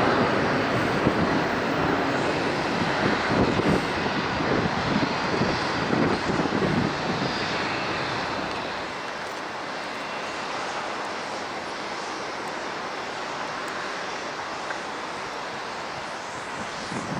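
Jet airliner engines: a broad, even jet noise, loud at first, then fading about eight seconds in to a steadier, quieter hiss.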